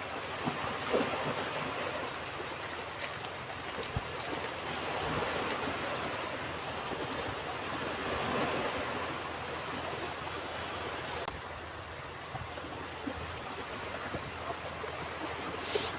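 Ocean surf washing onto a beach: a steady rushing noise that swells and eases slowly, with a brief high hiss near the end.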